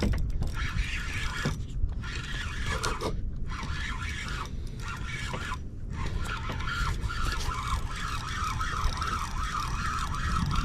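Penn Spinfisher VI spinning reel's drag buzzing steadily with a wavering pitch as a hooked fish runs and pulls line off. It grows stronger in the second half.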